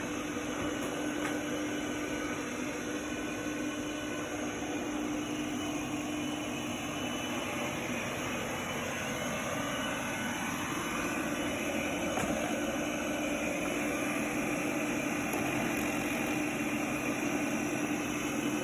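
Samsung POWERbot SR10M7010UB robot vacuum running, its suction motor making a steady whirring hum with a low steady tone; it gets a little louder about twelve seconds in.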